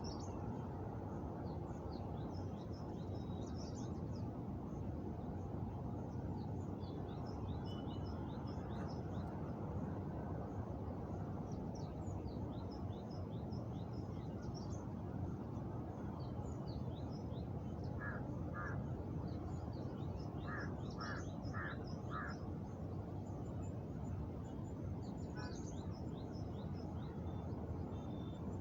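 Outdoor nature ambience: a steady low background rush with many small, high bird chirps throughout. A bird gives a short run of repeated calls twice, about two-thirds of the way in.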